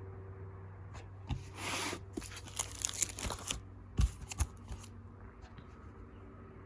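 Photo prints being handled and shuffled: paper rustling and sliding with a few clicks, from about a second in until about five seconds in, with a couple of soft knocks, over a low steady hum.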